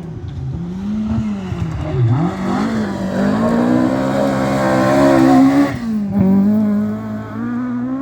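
Rally car engine working hard on a stage, its note dipping and climbing several times with throttle and gear changes. It builds to its loudest about five and a half seconds in, then drops sharply and runs on at a lower, steadier note.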